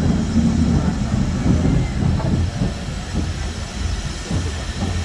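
Steam locomotive standing at the station, a continuous low rumble with a hiss over it.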